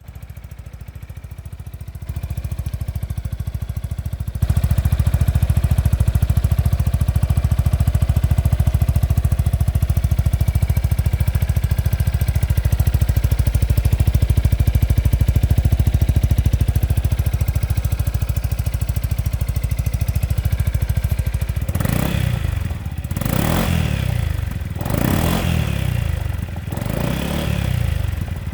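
Yamaha XMAX 300 scooter's single-cylinder engine running through an IXIL aftermarket muffler. It idles steadily, growing louder in two steps in the first few seconds, then is revved in several quick throttle blips near the end.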